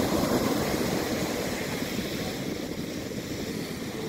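Ocean surf washing up the beach: a steady rush of water that eases off a little over a few seconds.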